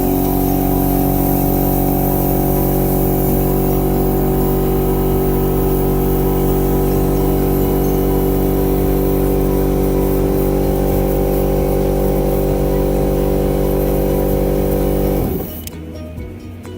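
A machine's motor running loudly at a constant pitch, then shutting off about fifteen seconds in.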